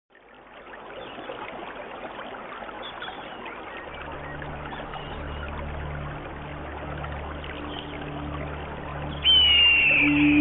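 Stream water running and trickling, fading in at the start. From about four seconds a low held music drone joins it, and near the end a loud high note of the background music comes in.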